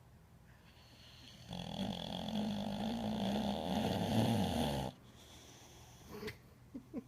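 A dog snoring: one long snore of about three seconds, starting a second and a half in and cutting off sharply, then a couple of faint clicks near the end.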